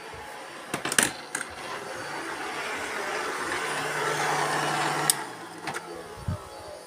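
Robot vacuum cleaners running together, a steady whirring hiss that swells and then eases about five seconds in. Sharp clicks and knocks about a second in and again near five and six seconds.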